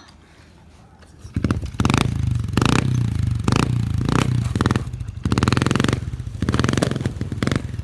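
A 1987 Honda CR80 dirt bike's 80cc two-stroke single comes in loud about a second and a half in, then revs up and down in repeated blips.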